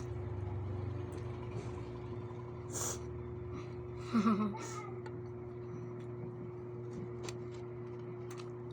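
Eating at a meal: a few short clicks of a spoon or fork, over a steady low mechanical hum. About four seconds in there is a short vocal sound.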